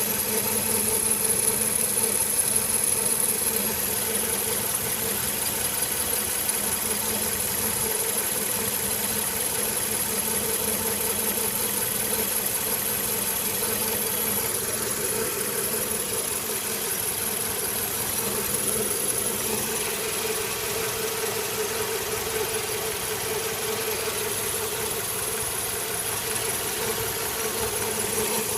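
2010 Hyundai Elantra's four-cylinder engine idling, with a steady noise from the accessory belt drive that carries a constant high whine over the engine's hum. The owner suspects a failing pulley.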